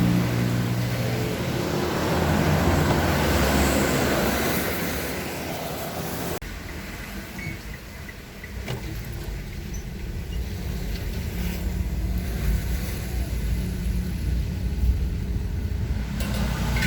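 Road vehicle and traffic noise: a vehicle running with a steady low rumble under a wash of noise, which changes abruptly to a quieter, lower rumble about six seconds in.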